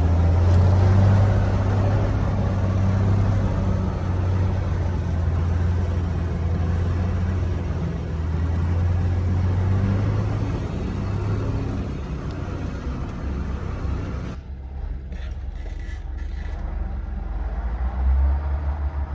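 Engine of an old 1940s GMC logging truck running with a steady low drone. The higher noise drops away about fourteen seconds in, and a faint rising whine comes in near the end.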